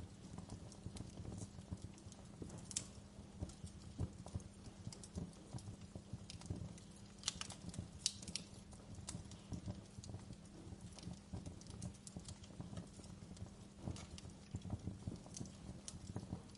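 Wood fire burning in a fireplace, crackling with irregular sharp snaps and pops over a low rumble of the flames, with a quick run of louder pops about seven to eight seconds in.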